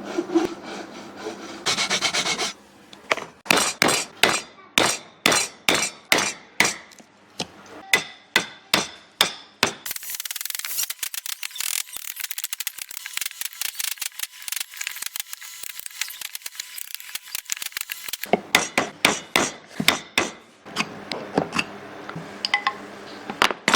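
Rasping back-and-forth strokes of hand filing, about two strokes a second, giving way in the middle to a steadier high-pitched hiss before the strokes resume near the end.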